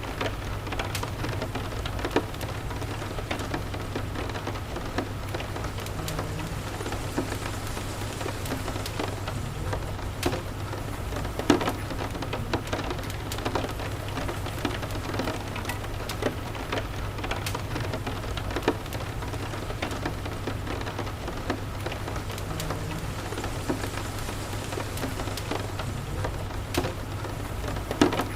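Steady rain with scattered sharp crackles and a few louder pops from a wood fire burning in a fireplace, over a steady low rumble.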